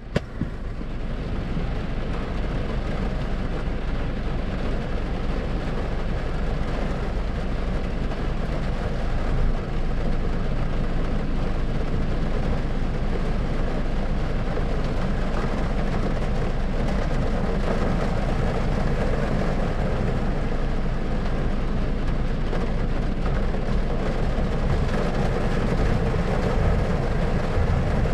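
Steady thunderstorm-style white noise: a continuous low rumbling hiss with no distinct claps or changes.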